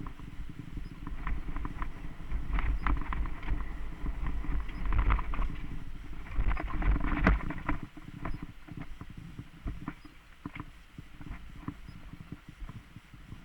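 Mountain bike riding over a rough dirt trail: many sharp clicks and rattles from the tyres and bike over a low rumble, which drops away about seven and a half seconds in, leaving scattered clicks.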